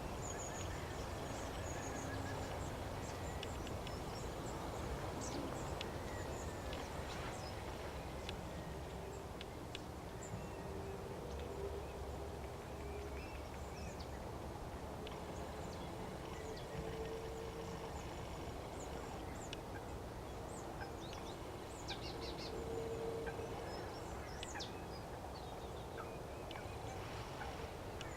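Wetland birds calling: many short calls throughout, with a few longer held notes, over a steady outdoor background noise.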